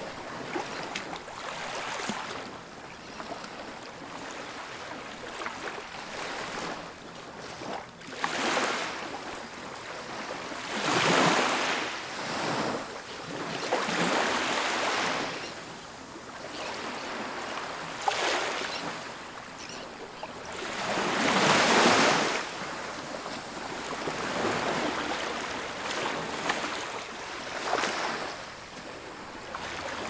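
Ocean waves breaking and washing up a beach, one surge of surf every few seconds over a steady hiss. The biggest waves come about a third and about two-thirds of the way in.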